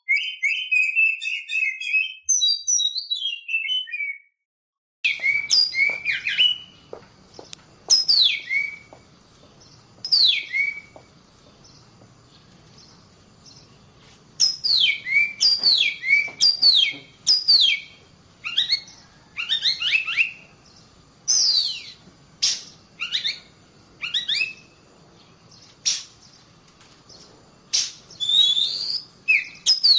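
Female Oriental magpie-robin calling in breeding condition: a quick chatter of notes at first, then after a short break a run of sharp, down-slurred whistles, repeated in clusters over a faint hiss.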